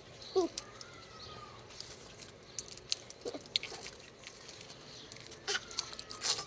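Baby parrots making a few short squeaky calls and thin gliding whistles, with scattered light clicks and taps between them.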